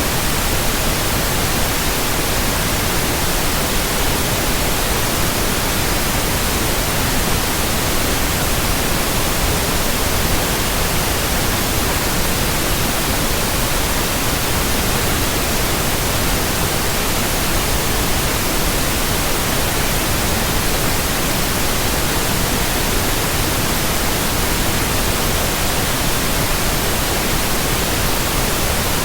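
Steady white noise: an even, unchanging hiss spread across all pitches, without tones, rhythm or breaks.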